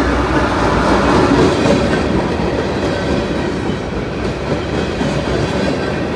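A train passing close by: steel wheels rolling over the rails in a steady, loud rumble and clatter that eases slightly toward the end.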